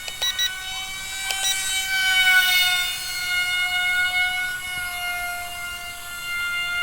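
RC model jet's motor and propeller in flight, a steady whine that grows louder about two seconds in and dips slightly in pitch as the plane passes by. A few short clicks come near the start.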